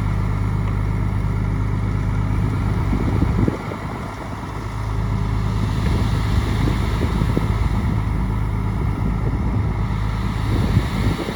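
Bulldozer's diesel engine running steadily under load, with low rattling from the machine; the engine note drops about three and a half seconds in and picks up again about a second later.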